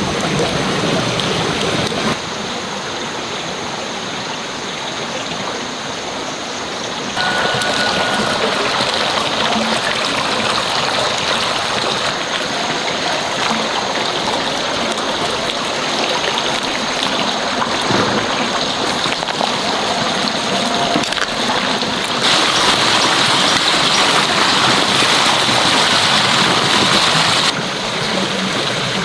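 Steady rushing, splashing water noise, its level and tone changing abruptly several times.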